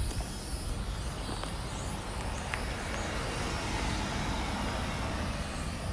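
A road vehicle passing by, its tyre and engine noise swelling through the middle and easing off, over a constant low rumble of wind buffeting the microphone.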